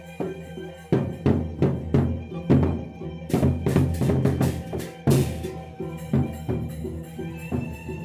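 A gendang beleq ensemble playing: a steady suling flute melody and a repeating percussion figure run throughout. The big drums start striking hard about a second in, with two cymbal crashes in the middle.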